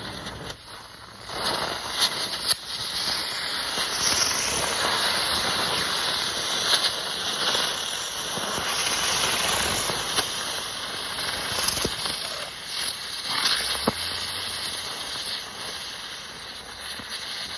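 Quick-fused chain of consumer spinning fireball and zinger ground fireworks burning: a continuous loud hiss of spinning, spark-spewing fireworks with sharp pops scattered through it, dying down near the end.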